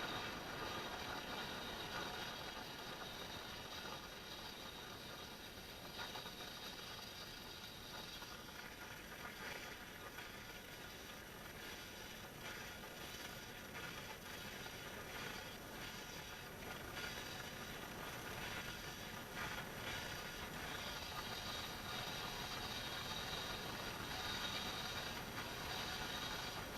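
A heat gun running with a steady whir while the YZ125's crankcase is heated around a small bearing to loosen it for pulling, with scattered light clicks of metal tools.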